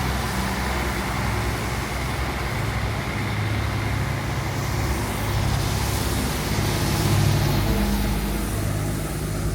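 Road traffic: a motor vehicle's engine running close by, a steady low hum under continuous traffic noise.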